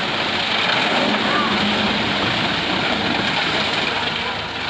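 An engine running steadily at an even pace, with faint voices in the background.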